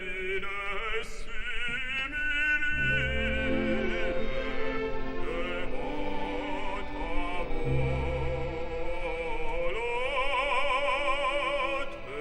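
Background music: an operatic singing voice with wide vibrato, holding long notes over an orchestra.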